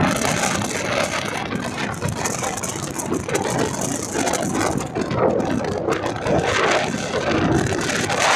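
Steady running noise of an express passenger train on the move: wheels on the rails and the coaches rattling.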